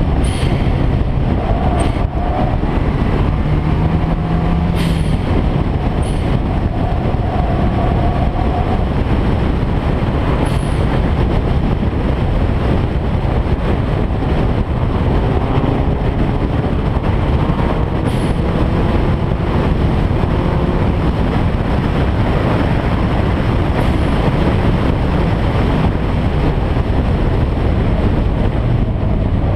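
A car engine running at speed under steady load, heavy with road and wind noise. A few short sharp clicks come several seconds apart.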